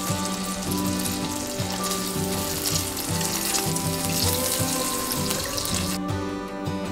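Shrimp sizzling as they fry in melted butter in an enamel pan, a steady hiss that cuts off suddenly about six seconds in. Soft background music plays underneath.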